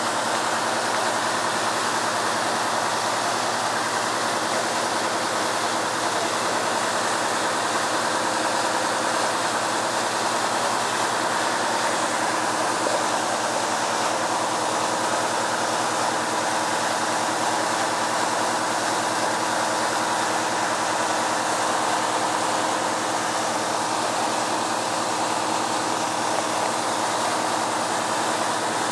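Water gushing steadily from a sheared fire hydrant, a continuous loud rushing, with a steady low engine hum underneath.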